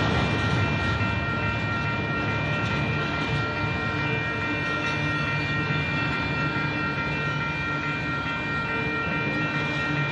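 Union Pacific double-stack intermodal freight cars rolling steadily past a grade crossing: a continuous rumble of steel wheels on the rails, with a steady high ringing tone over it.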